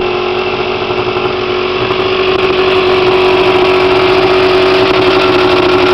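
Boat engine running steadily with an even engine note, getting a little louder over the first couple of seconds.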